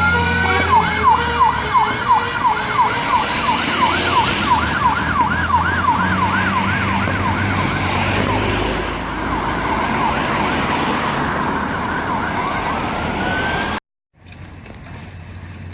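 Fire engine's siren on a fast yelp, about three sweeps a second, over the engine running, then sliding back into a rising wail before cutting off suddenly near the end.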